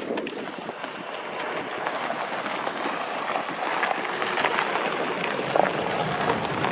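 Train of old passenger carriages hauled by steam locomotive 555.0153 running along the track: a steady rolling rumble, slowly growing louder, with scattered faint clicks.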